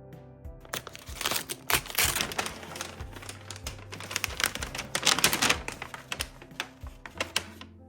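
A dense, irregular run of sharp clicks and rustling over soft background music. It starts under a second in and cuts off abruptly near the end.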